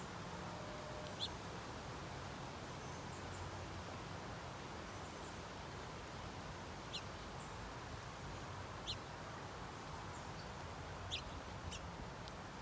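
Small birds giving short, high chirps now and then, about five spaced a few seconds apart, over a steady background hiss.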